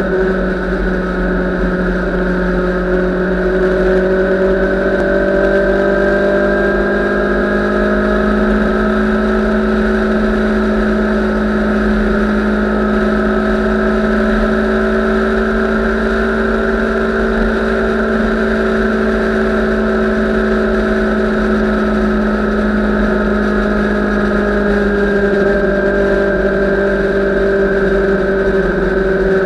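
Motorcycle engine running at a steady cruising speed, a constant drone whose pitch barely drifts.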